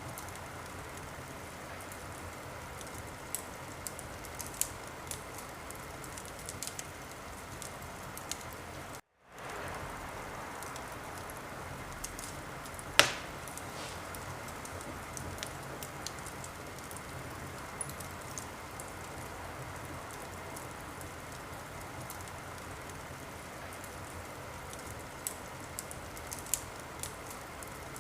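Wood fire in a fireplace crackling over a steady hiss, with scattered sharp pops and one loud pop about thirteen seconds in. The sound cuts out for a moment about nine seconds in, then fades back in.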